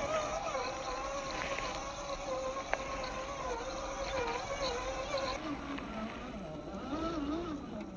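Electric motor and gearbox of an RC4WD TF2 scale crawler whining steadily, its pitch wavering with the throttle. About five seconds in the whine drops to a lower, slower pitch. A single sharp click sounds near the middle.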